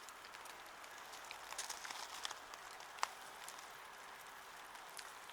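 Steady light rain falling, with scattered drops ticking close by and one sharper tick about three seconds in.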